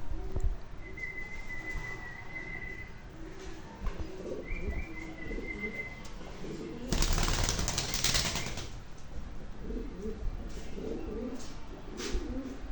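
Pigeons cooing in low, repeated murmurs, with a burst of wing flapping about seven seconds in that lasts under two seconds.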